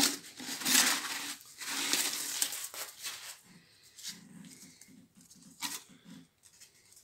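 Wet cardboard being torn and scraped out of a freshly cast refractory furnace lining, in loud rough bursts for the first few seconds. Then quieter, with a rapid even pulsing scrape for about two seconds and a sharp rustle near the end.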